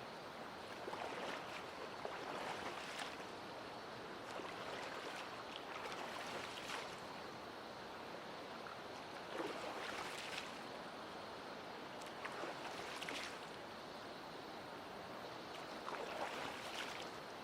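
Mountain stream flowing over rocks, a steady rush of water with irregular splashes every few seconds.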